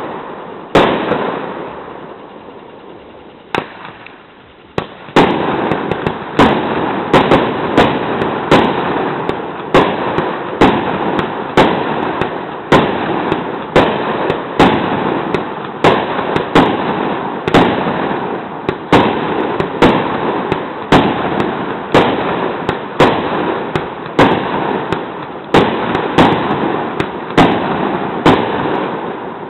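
Aerial fireworks bursting in a fast, even run of loud bangs, more than one a second. The run follows a short lull a second or so in.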